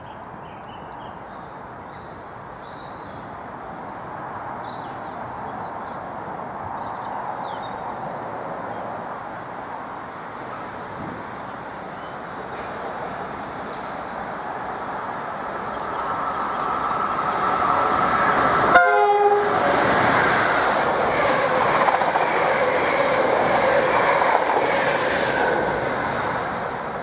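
Electric-hauled passenger train approaching at speed and passing through the station, its rush growing steadily louder. It gives a short horn blast about 19 seconds in, then goes by with rhythmic wheel clatter over the rail joints, and the sound fades near the end.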